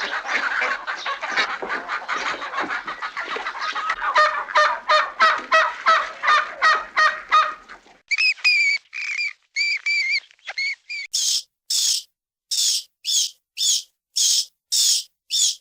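Barnyard fowl sound effects. A flock of chickens clucks in a dense overlapping chorus that settles into evenly repeated calls about two a second. Near the middle it cuts abruptly to a separate recording of short, high bird calls with silences between them, about two a second toward the end.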